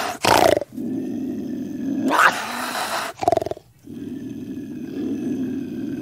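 A cougar vocalising: long, low, steady growls broken by three short, loud outbursts, the first at the very start and the others about two and three seconds in.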